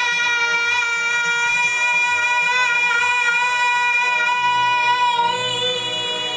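A young girl singing one long, held note at a steady pitch with a slight waver, easing off near the end, over backing music.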